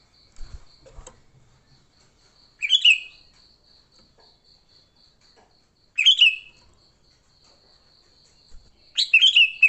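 Sooty-headed bulbul giving its excited 'fighting' calls in short loud bursts about every three seconds, the last a quick double call near the end. A faint high insect-like pulsing, about four pulses a second, runs steadily behind.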